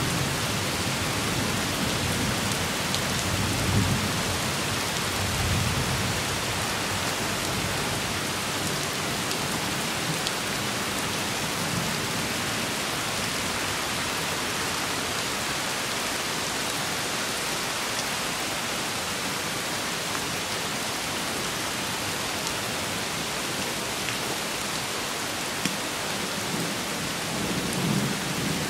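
Steady rain falling, with low thunder rumbling during the first few seconds and again near the end.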